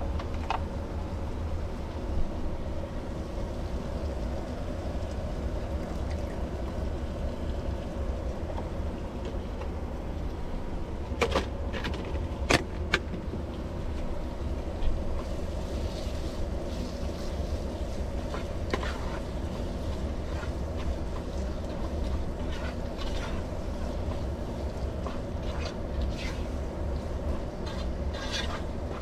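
Steady low hum throughout, with a few short sharp clicks and knocks of cooking utensils against the pot, two of them close together around the middle.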